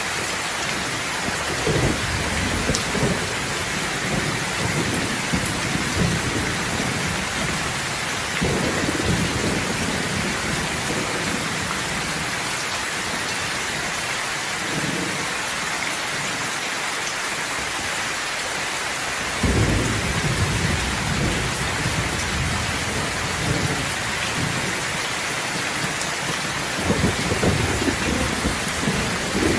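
Steady rain falling, with thunder rolling in as low rumbles several times: shortly after the start, again several seconds later, and twice more in the second half.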